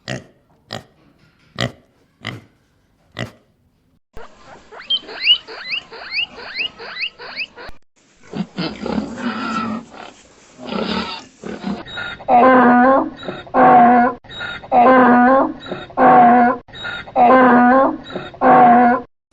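A series of animal calls: a few sharp clicks, then a quick run of rising squeaks, then six evenly spaced calls of about a second each.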